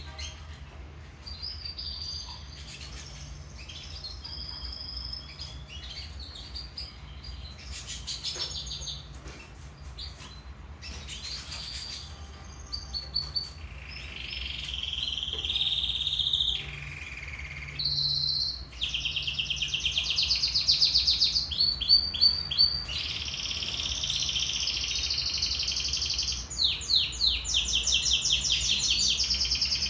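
Domestic canary singing: scattered chirps and short phrases at first, then a louder, continuous song of rolling trills and fast repeated notes through the second half.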